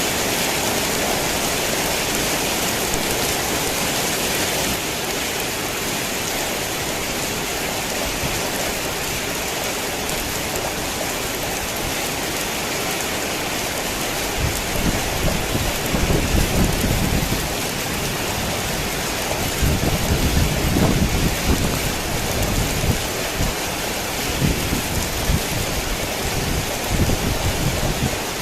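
Heavy rain falling steadily, a dense even hiss. About halfway in, low rumbles of thunder come and go several times.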